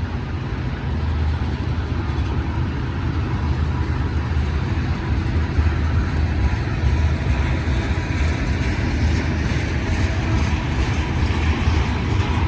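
Long freight train rolling past close by: a steady rumble of wheels on rail and cars passing.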